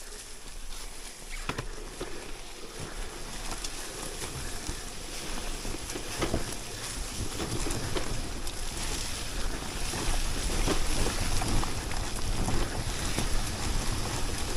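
Wind rushing over the microphone, with scattered light knocks, growing slowly louder.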